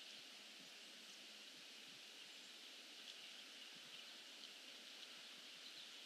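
Faint steady outdoor hiss with a few faint, scattered bird chips from birds perched in a bare tree.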